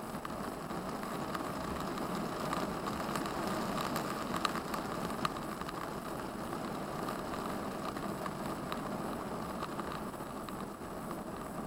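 Steady noise of a vehicle travelling through heavy rain, rain and wet-road hiss over the running engine, with two sharp ticks about four and five seconds in.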